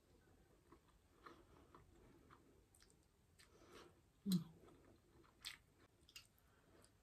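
Faint eating sounds from a hand-eaten meal of millet dhido and fish curry: chewing with soft mouth clicks, and one louder low thump a little over four seconds in.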